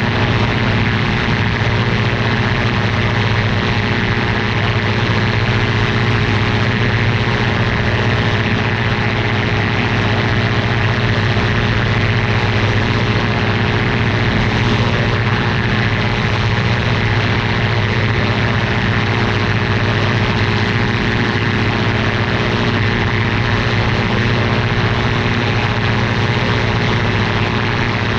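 Ultralight aircraft's engine and propeller running at a steady, unchanging drone.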